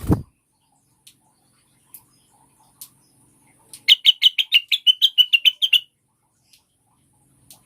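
Female cucak wilis leafbird calling: a quick run of about sixteen sharp, evenly spaced chirps lasting about two seconds, starting about four seconds in, the female call used as a lure for males. A short low thump at the very start and a few faint ticks.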